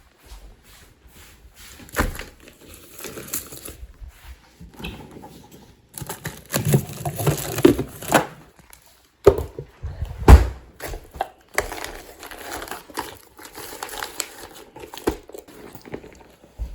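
Rustling and crinkling with scattered sharp knocks, as of things being handled and moved about.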